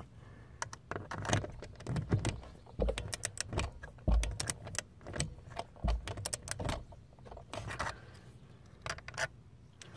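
Hand tool tightening fasteners: irregular bursts of metallic clicks and rattles, like a torque wrench's ratchet being worked in short strokes. A few dull knocks come between them.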